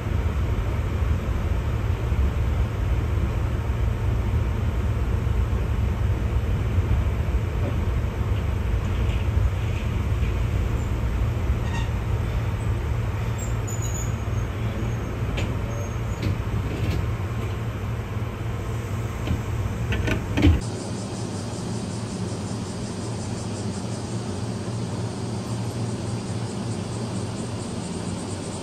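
Running noise of a Keihan 600-series train: a steady low rumble with scattered light clicks. A sharp clunk comes about twenty seconds in, then the rumble cuts off suddenly, leaving a quieter steady hiss.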